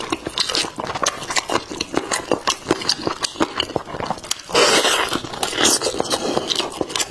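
Close-miked chewing and biting of a roast chicken leg: irregular mouth clicks and smacks, with a louder, noisier stretch about four and a half seconds in.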